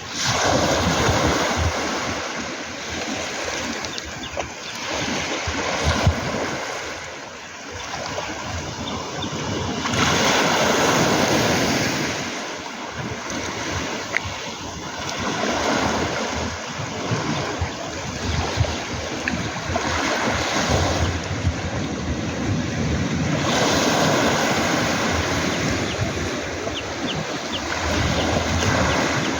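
Sea waves breaking and washing over a round-pebble beach, swelling and easing every four to six seconds.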